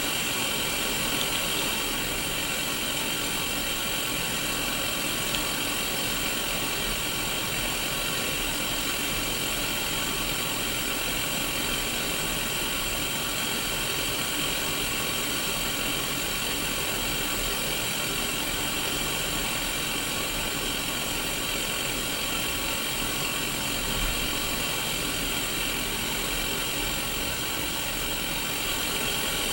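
Untuned analog TV static from a Sony Mega Watchman black-and-white mini CRT television: a steady, even hiss with faint constant tones running through it.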